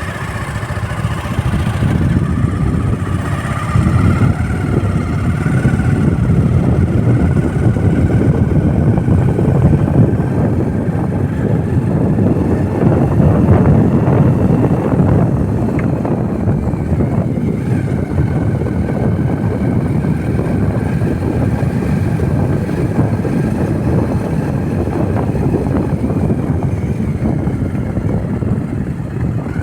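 Motorcycle running while being ridden, a steady dense low rumble with a faint higher tone that drifts up and down as the speed changes.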